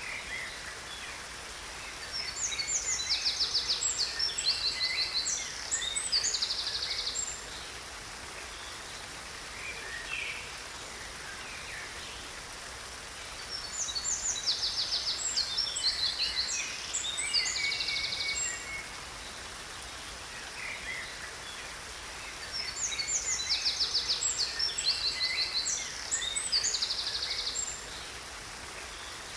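A songbird singing three bouts of fast trills and chirps, the same phrase repeated about every ten seconds, over the steady rush of a waterfall.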